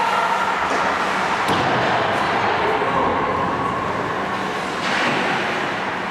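Ice hockey rink ambience: a steady wash of noise with a sharp click about a second and a half in.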